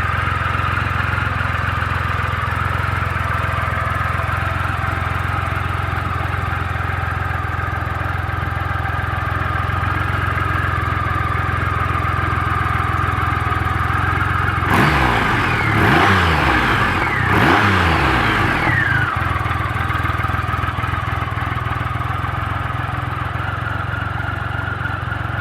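2007 Triumph Rocket III Classic's 2.3-litre three-cylinder engine idling steadily. It is revved twice about fifteen seconds in, each rev rising in pitch and falling back to idle.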